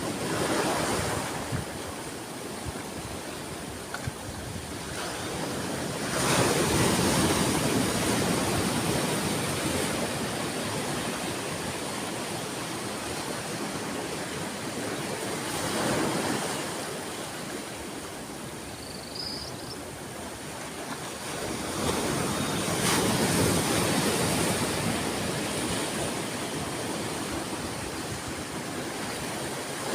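Sea waves breaking on a shore: a steady wash of surf that swells into a louder breaking wave every several seconds, about three times.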